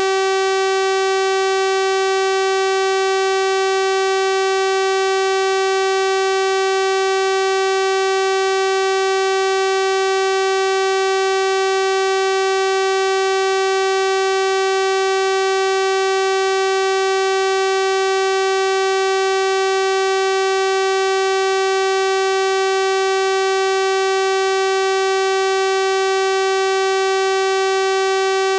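Synthesized 384 Hz sawtooth-wave tone held at one steady pitch and level, a bright buzzing tone rich in overtones.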